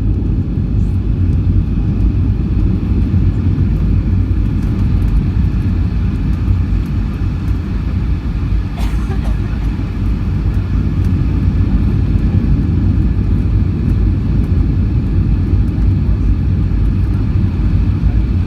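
Steady low rumble of a Boeing 757-200 airliner in flight, heard inside the passenger cabin: engine and airflow noise, even and unchanging. A brief click about halfway through.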